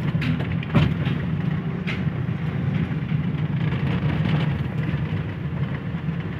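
Daihatsu Cuore's small three-cylinder petrol engine running steadily at low revs, heard from inside the cabin as the car creeps forward. There is a sharp knock about a second in and a lighter click a second later.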